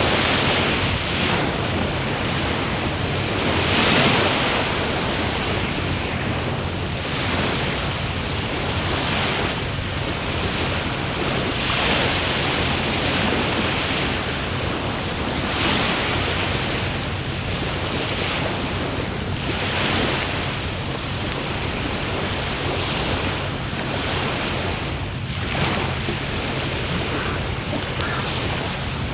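A wood bonfire in a fire pan burns with a few faint crackling pops over a steady rushing noise that swells and fades every few seconds. A constant high-pitched whine runs throughout.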